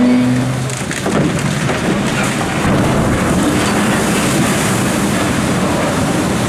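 Rush and splash of water as a large cargo ship hull enters the water at its launch, throwing up a big wave. It sets in about a second in as a heavy, steady wash of noise.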